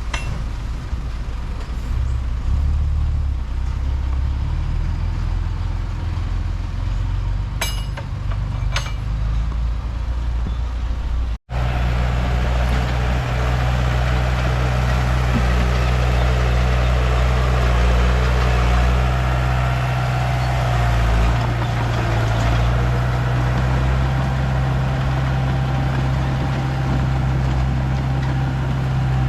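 Komatsu D31P bulldozer's diesel engine running steadily while working, with two sharp clicks about a second apart some eight seconds in. The sound cuts out for an instant about eleven seconds in, then carries on louder and steadier.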